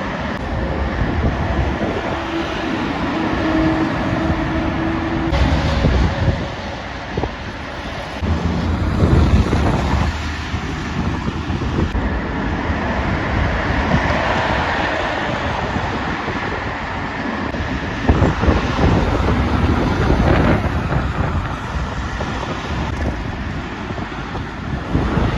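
Heavy trucks passing at speed, their engines and tyres swelling and fading one after another, with wind buffeting the microphone.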